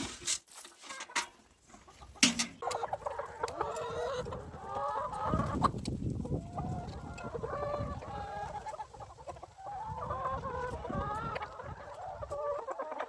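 A flock of domestic hens clucking and calling over one another, starting about two and a half seconds in after a few sharp knocks.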